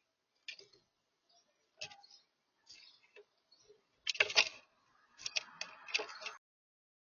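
Birds pecking and moving about on a bird feeder: scattered irregular clicks and taps, a louder cluster of knocks about four seconds in, then a run of quick clicks over a rustling clatter that stops shortly before the end.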